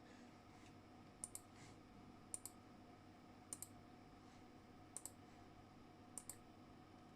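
Faint, evenly spaced double clicks, five pairs about one and a quarter seconds apart, over a low steady hum.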